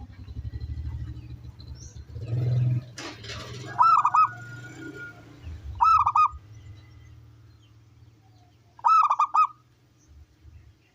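Zebra dove (perkutut) calling: three short phrases of rapid cooing notes, about two and three seconds apart. A low rumble fills the first three seconds.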